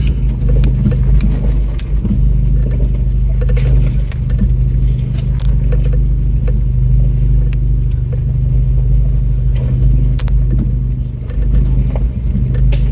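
Off-road truck's engine running low and steady at crawling speed, heard from inside the cab, with scattered clicks and rattles of the body and loose items over the rough trail.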